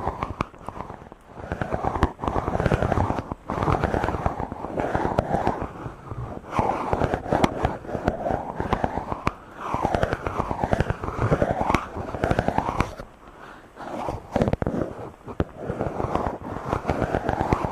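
Fingers rubbing directly on a microphone: repeated close, scratchy rubbing strokes that swell and fade every second or two, with a swishing sweep in pitch and small crackles.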